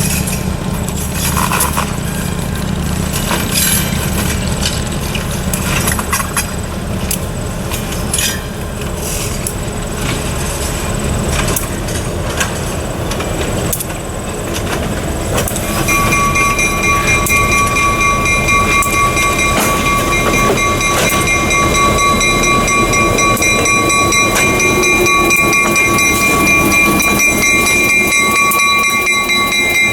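Freight train rolling along rough, poorly maintained track, with rumbling and scattered clanks and clicks from the wheels and cars. About halfway through, a steady high-pitched ringing tone comes in and holds.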